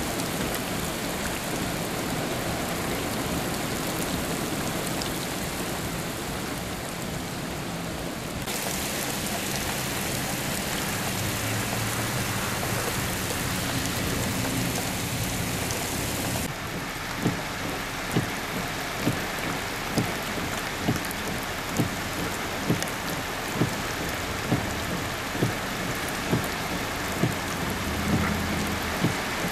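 Heavy rain pouring down onto pavement and standing water, a dense steady hiss whose tone changes abruptly twice. From about halfway through, a sharp tap repeats roughly once a second over the rain.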